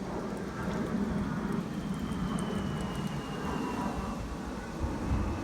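A-10 Warthog's twin turbofan jet engines rushing as it flies past, with a high whine that slowly falls in pitch.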